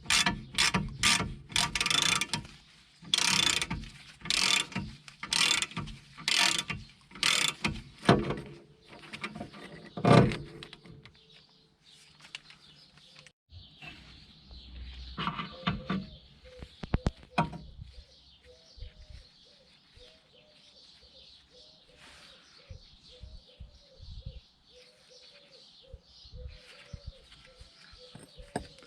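Ratchet wrench clicking through repeated strokes, quick at first and then about one a second, typical of winding a bearing press on a Mercedes CLK W208's front wheel bearing. A single loud metallic knock about ten seconds in, then a few quieter clicks.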